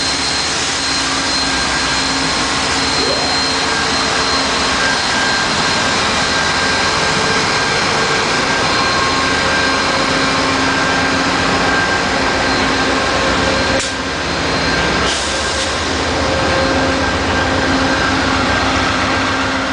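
A train rolling past at close range behind steam locomotive 4449, with a diesel locomotive in the consist: a loud, steady engine drone with a constant whine over it. There are two short sharp clanks about 14 and 15 seconds in.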